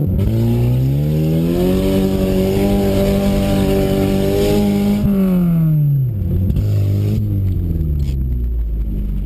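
Lada's four-cylinder engine revved hard, climbing over the first second and a half and holding high revs with a hiss of gravel under the tyres. It drops off about five seconds in, picks up briefly once more and falls away again.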